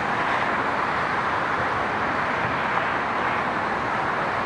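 Steady roadway traffic noise, an even rushing hiss without distinct passes or impacts.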